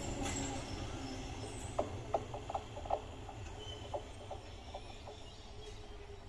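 Low rumble of a train, fading steadily, with a scatter of short sharp clicks or chirps through the middle.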